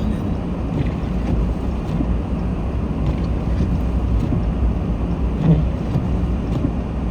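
Steady low rumble of a vehicle driving, heard from inside the cabin: engine and tyre noise while moving downhill.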